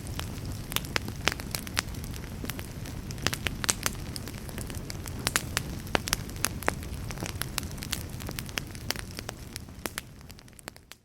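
Wood fire of burning logs crackling, with frequent sharp pops and snaps over a steady low rumble and hiss. Near the end it fades away to a brief moment of silence.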